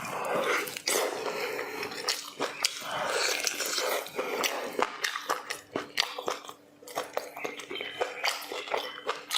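Close-miked mouth eating sounds: chewing and biting food, with many sharp wet clicks and smacks.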